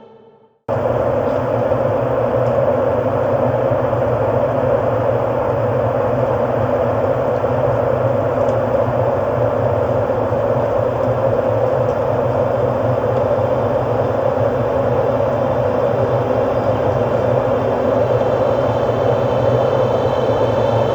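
Ambient music fades out into a moment of silence, then under a second in a steady, dense, machine-like droning hum cuts in abruptly and holds unchanged.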